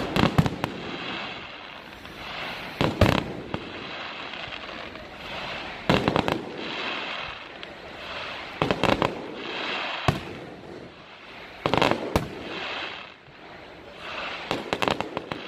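Aerial firework shells bursting: a cluster of sharp bangs roughly every three seconds, about six in all, with hissing and crackling between the reports.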